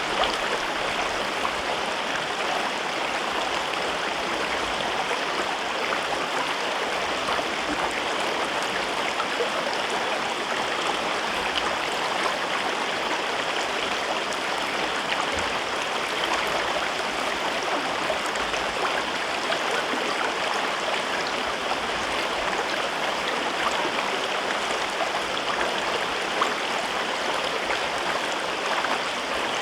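River water flowing over rocks through a gorge: a steady, even rushing with small splashes and gurgles.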